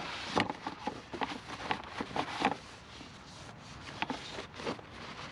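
Irregular short rustles and scuffs of hands wiping off chain-cleaner overspray around a motorcycle's chain.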